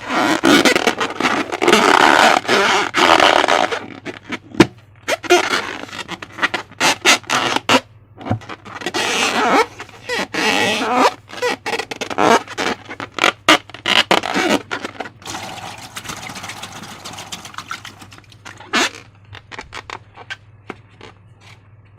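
Slime being squished and worked by hand: wet squelching and crackling clicks, heavy at first, then in short bursts that thin out and fade near the end.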